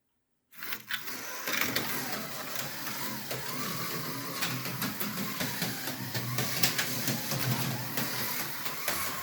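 Tyco HO-scale Formula One slot car running laps on the track: its small electric motor whirs steadily with the rattle and clicking of the car in the slot. It starts suddenly about half a second in.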